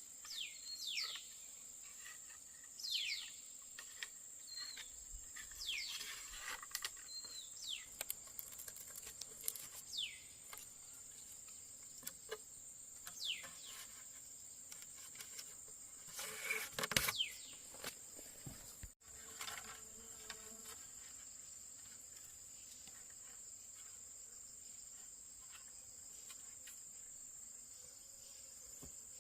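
Steady high-pitched drone of insects, with repeated short bird calls that slide downward through the first half and a brief rustling noise near the middle.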